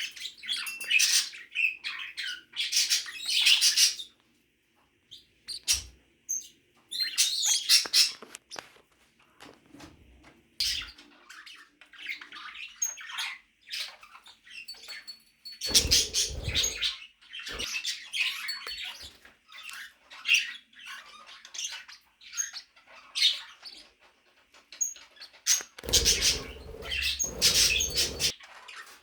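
Pet budgie and peach-faced lovebird chirping and chattering in bursts, with short pauses between them. A low, rumbling noise comes under the chatter briefly about halfway through and again near the end.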